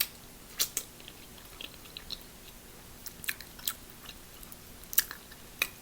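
Close-miked chewing of a spicy stuffed clam, with wet mouth clicks and smacks coming irregularly, a few of them sharp.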